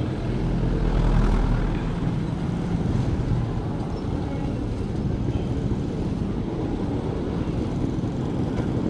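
Suzuki Raider 150 single-cylinder motorcycle engine running, swelling a little about a second in and then holding steady.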